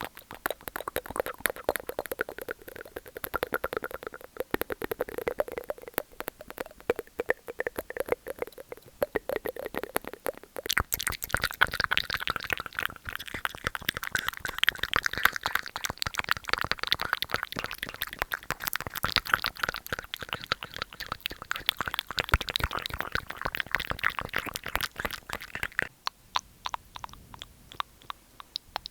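Rapid, wet ASMR mouth sounds: a dense run of tongue clicks and smacks. It turns brighter and busier about a third of the way in and thins out near the end.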